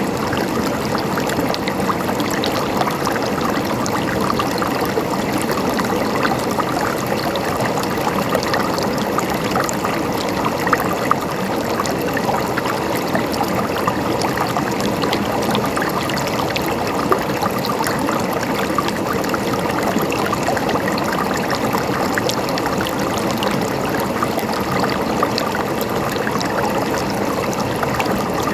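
Mountain stream flowing steadily, water gurgling and splashing over rocks.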